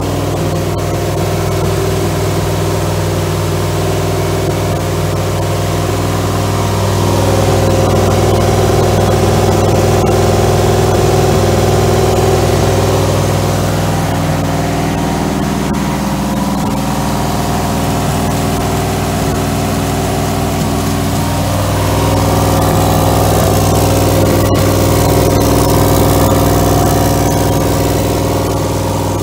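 1963 Oldsmobile Jetfire's turbocharged 215 cubic-inch aluminum V8 running steadily on an engine stand during camshaft break-in. The sound grows a little louder twice, in the first half and near the end.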